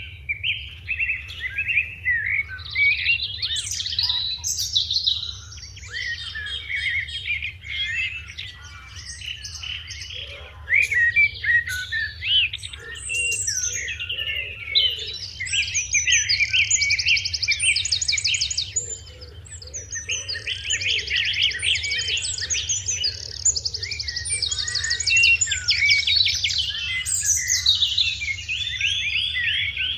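A group of sparrows chirping continuously, many short chirps and quick trills overlapping at once.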